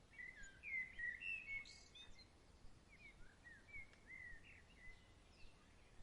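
A songbird singing in quick chirping, warbling phrases, loudest and busiest in the first two seconds and then thinner, over a faint steady outdoor hiss.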